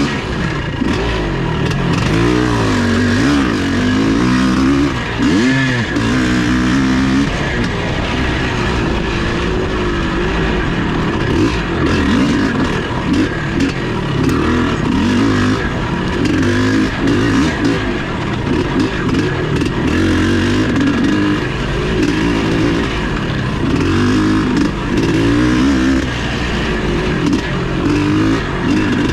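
Vintage off-road motorcycle engine running under load, its pitch rising and falling over and over as the rider works the throttle and gears over rough ground.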